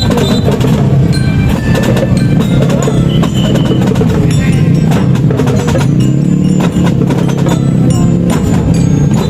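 Elementary-school marching band playing, with rapid drum strokes under held melody notes.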